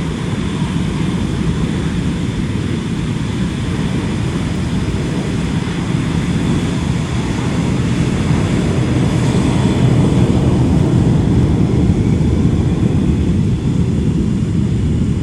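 Twin-engine jet rumble from Blue Angels Boeing F/A-18 Super Hornets flying the display, a steady deep roar that swells about two-thirds of the way through and eases off slightly near the end.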